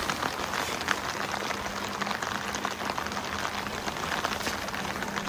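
Heavy rain falling steadily, a dense patter of many small drop ticks, with a faint steady low hum underneath.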